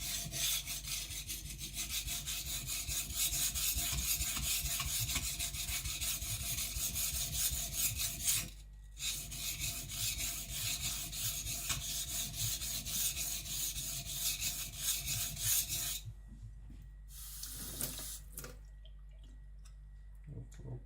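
Kiridashi blade being stroked rapidly back and forth on a whetstone under light pressure, grinding a secondary bevel: a gritty, rasping scrape with a short break about eight seconds in. The strokes stop at about sixteen seconds, and a brief hiss follows.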